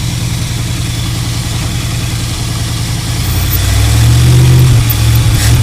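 1984 Dodge Power Ram pickup's engine running on its own with the fuel pump disconnected, idling and then picking up and getting louder about three and a half seconds in. The truck has an unsolved stalling problem: it runs for a while and then suddenly dies.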